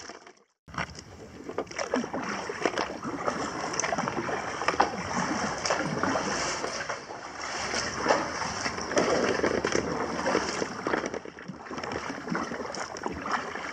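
Fast, high river water rushing around a kayak, with irregular splashes from paddle strokes as it is paddled against the current. The sound cuts out briefly about half a second in.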